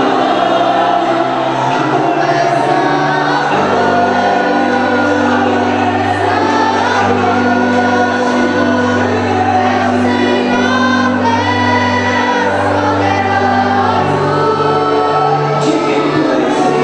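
Choir singing gospel music over steady instrumental accompaniment, with held bass notes that change a few times under the voices.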